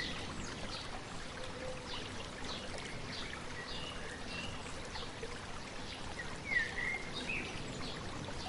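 A stream babbling steadily, with small birds chirping now and then over it; the most prominent call comes about six and a half seconds in.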